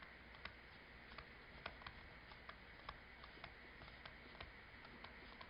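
Near silence: room tone with faint, irregular light clicks, a few a second.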